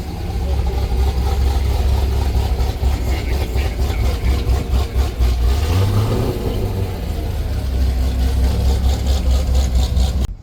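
A car engine running close by with a steady low rumble, its revs rising briefly about six seconds in. It cuts off suddenly just before the end.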